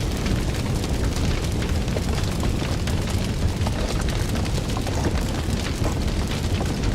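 Fire burning with a steady low rumble of flames and frequent small, irregular crackles and pops.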